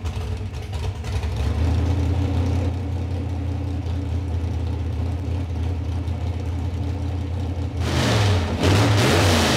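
The 1956 Chevy 210's engine idles steadily on a newly fitted MSD distributor and MSD 6A ignition box. Near the end it is revved in a few short blips.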